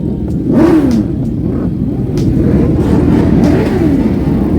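Motorcycle engines revving in repeated blips, each one rising and falling in pitch, over a steady engine rumble.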